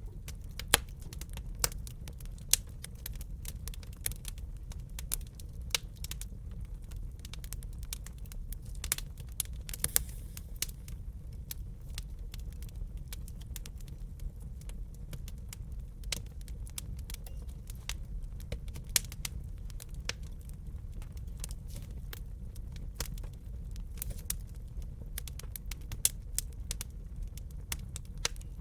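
Wood fire crackling in a fireplace: irregular sharp snaps and pops over a steady low rumble of the flames, with a few louder pops scattered through.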